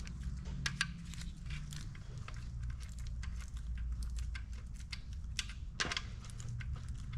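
Many light, irregular metal clicks and clinks as engine parts and bolts are handled and fitted by hand, over a steady low hum.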